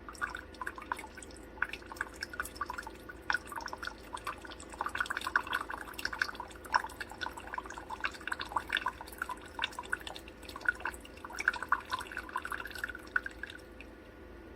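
Keurig K-Duo coffee maker dripping and spattering water in quick, irregular drops that stop about a second before the end, over a faint steady hum.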